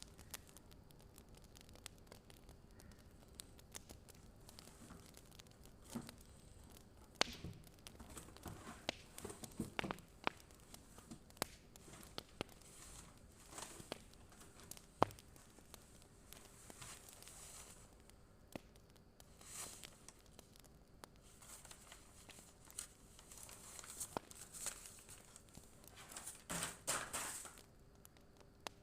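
Fire crackling quietly: scattered sharp pops and snaps, with a few short bursts of denser hissing crackle, the longest near the end.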